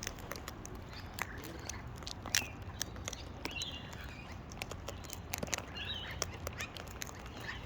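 Birds feeding on scattered seed, pecking and cracking the seeds with irregular sharp clicks, with a couple of short bird calls about three and a half and six seconds in.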